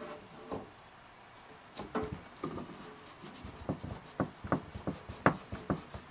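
A series of light knocks and clacks from objects being handled and set down on a workbench, sparse at first and coming quicker from about two seconds in, the loudest near the end.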